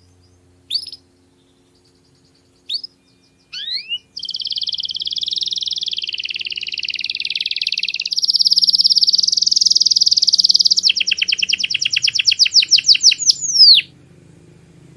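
Domestic canary singing: a few short rising chirps, then a long rolling trill lasting several seconds. It breaks into a fast run of separate, louder notes and ends on a falling note.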